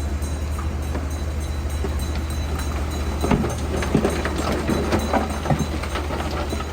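Bulldozer spreading stone: a steady low diesel engine drone, with a run of irregular clanks and knocks from about three seconds in that lasts a couple of seconds.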